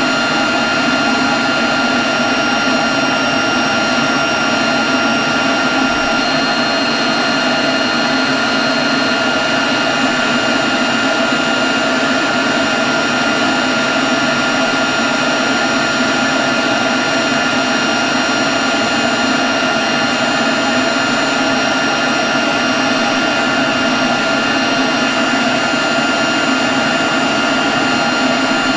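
Leaf blower running steadily at constant speed: a loud, even rush of air with several steady high whining tones over it.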